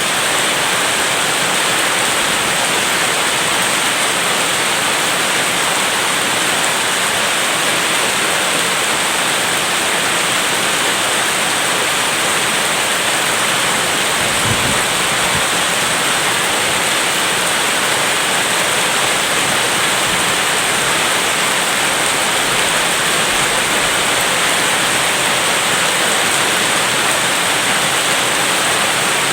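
Steady, loud rain with no let-up, and one brief low thump about halfway through.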